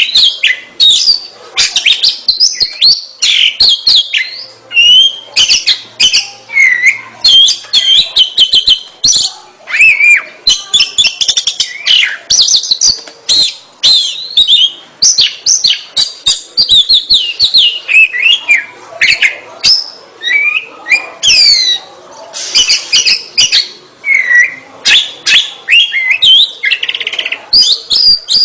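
Oriental magpie-robin (kacer) in full, nonstop song: a rapid, varied run of whistled phrases sweeping up and down, with sharp clicks between them.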